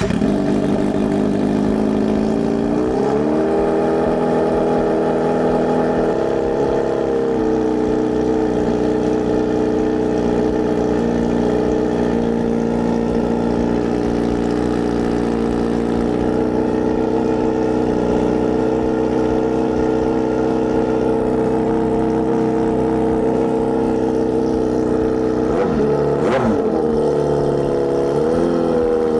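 Kawasaki Z900RS inline-four running loud through a Wirus Win slip-on exhaust with the baffle removed, idling just after a cold start. Its engine speed rises briefly about three seconds in and again a couple of times near the end.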